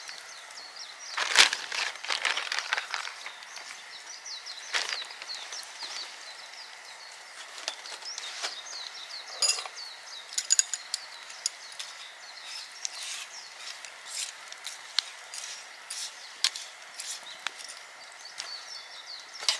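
Irregular sharp crackles and snaps over a faint steady hiss, with a few louder snaps about a second and a half in and around ten seconds in.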